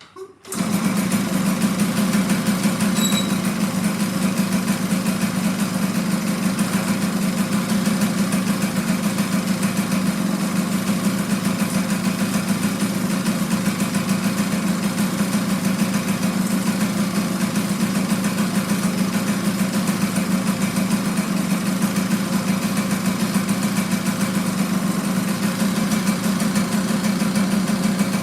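Yamaha GT50 minibike's 49cc air-cooled two-stroke single-cylinder engine starting about half a second in and then idling steadily.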